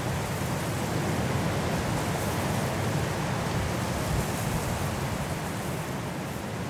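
Strong wind blowing through trees in a snowstorm: a steady rushing noise that eases slightly near the end.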